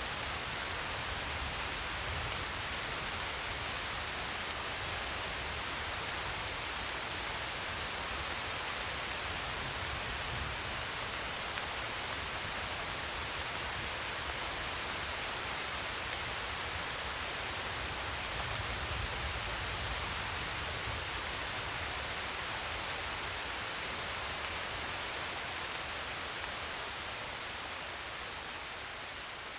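Steady, dense rain hiss with a low rumble underneath, easing slightly in level near the end.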